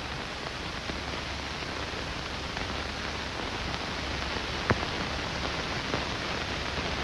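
Steady hiss and low hum from the soundtrack of an old film print, with a few faint clicks, the sharpest a little past the middle.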